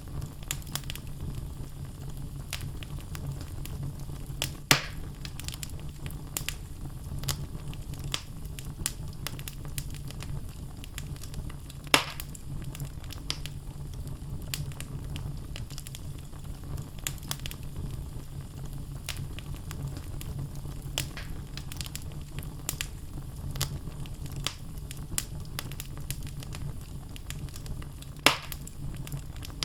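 Wood fire crackling in a fireplace: a steady low rumble of flames under a constant scatter of small crackles, with three louder sharp pops from the burning logs spread through.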